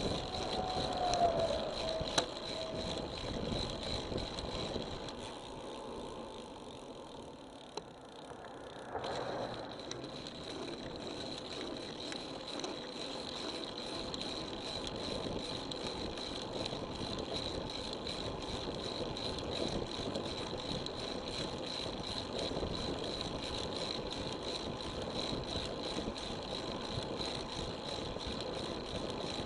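Wind and road noise from a road bicycle being ridden, picked up by an action camera's microphone, with a constant high whine running through it. A short falling tone and a sharp click come in the first few seconds.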